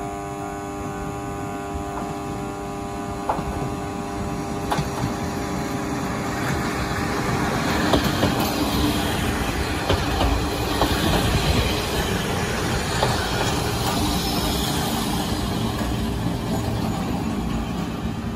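Kominato Railway two-car diesel railcar pulling into the station and rolling past close by, engine running and wheels clicking over the rail joints. The sound grows louder toward the middle as it passes, then eases a little near the end.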